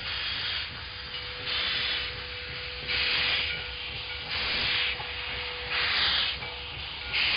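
Steam locomotive chuffing slowly: regular hisses of exhaust steam about every second and a half, over a faint steady hum.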